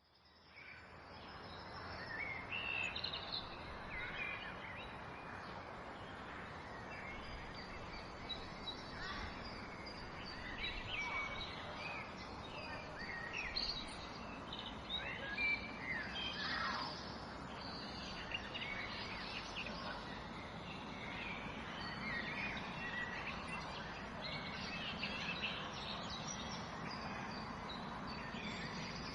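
Many birds chirping and calling over a steady background hiss, fading in at the start.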